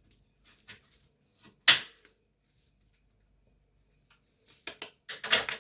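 Kitchen handling noises: scattered taps and knocks of utensils and dishes, with one sharp knock about a second and a half in and a cluster of quicker knocks near the end.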